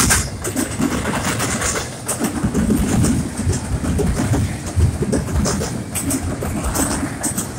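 CN double-stack container freight train rolling past: a steady low rumble of the well cars with an irregular clatter of wheels on the rails.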